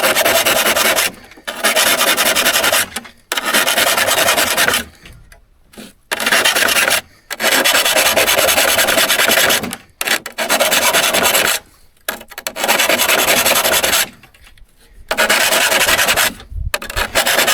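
Hand file rasping across a steel saw blade's teeth in repeated strokes of one to two seconds, with short pauses between them: the teeth being sharpened by hand. There is a light knock near the end.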